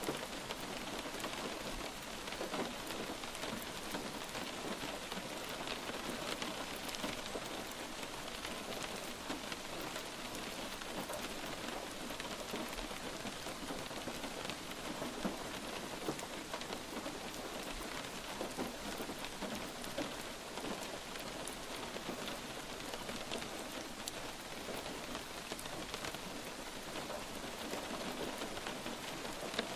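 Light rain falling steadily, a dense patter of individual drops hitting a surface.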